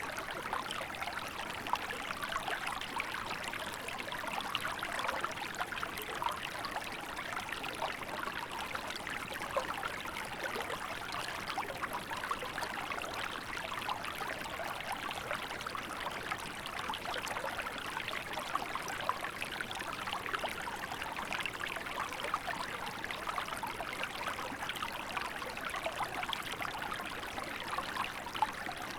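Small shallow river flowing steadily, water burbling and splashing over stones.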